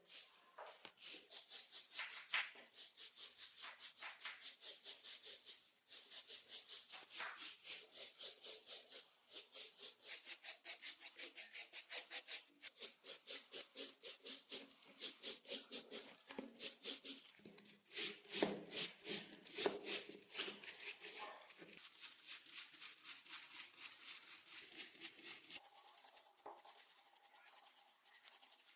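Rapid back-and-forth hand strokes of an abrasive tool scraping rust and dirt off a metal lamp, about four strokes a second, with a few short pauses.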